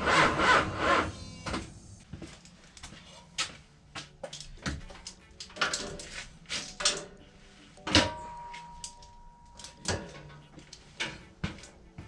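Starter cranking a Mopar 408 stroker V8 that does not catch, stopping about a second and a half in: the ignition sparks but no fuel is reaching the engine. Then scattered clicks and clunks.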